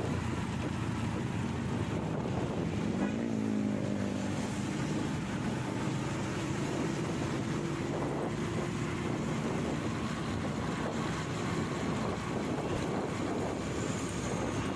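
Motorcycle riding in traffic with wind noise buffeting the microphone over the steady rumble of the engine. About three seconds in, an engine note rises in pitch and then holds steady for several seconds.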